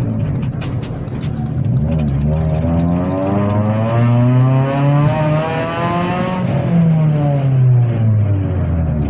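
Chevrolet Celta 1.0 VHC-E four-cylinder engine, naturally aspirated, with a 4-into-1 header, straight exhaust and an unfiltered cold-air intake, heard from inside the cabin. The revs climb steadily under acceleration, hold high for a couple of seconds, then fall away as the throttle is lifted near the end.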